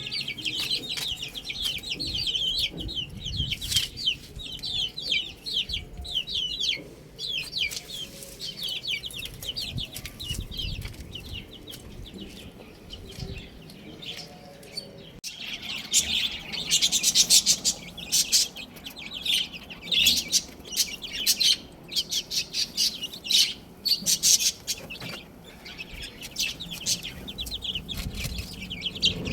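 Baby chickens peeping: a dense stream of rapid, short, high-pitched chirps, louder in the second half.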